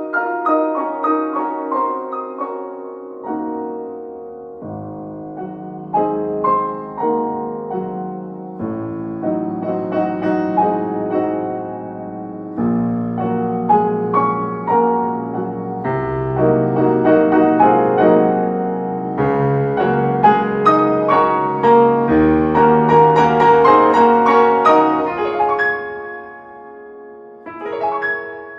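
Instrumental piano music, many notes ringing and overlapping, fading briefly near the end before new notes begin.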